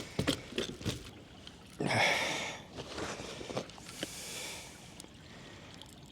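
A hooked bream splashing at the water's surface while it is brought in to the kayak: two short splashes, about two seconds in and again about four seconds in, amid light clicks and knocks.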